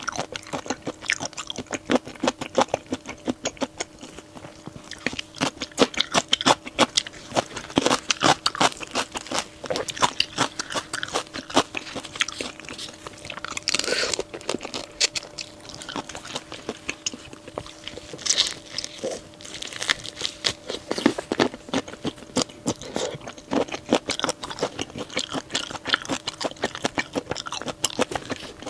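Close-miked biting and chewing of a crunchy shrimp dish: a dense, uneven run of crisp crunches and mouth clicks in clusters. A faint steady hum runs underneath until about two thirds of the way through.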